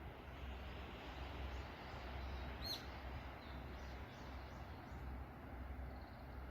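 Waves washing on the shore in a steady hiss, with a bird giving one short sharp call a little under halfway through and fainter chirps from other birds around it.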